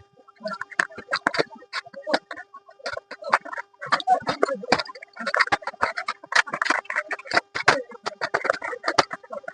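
Irregular crinkling, rustling and clicking as the packaging of a new motorcycle chain-and-sprocket kit is opened and handled.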